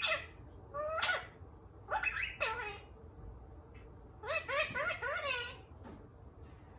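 Indian ringneck parrot chattering: several short, high-pitched bursts of warbling, half-talking vocalisation, the longest run about two-thirds of the way through.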